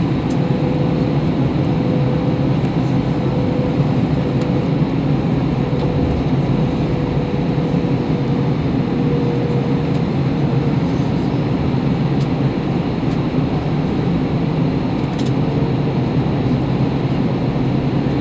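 Steady cabin noise inside an Airbus A321 airliner in flight: a constant rumble of engines and rushing air with a thin, steady hum running through it.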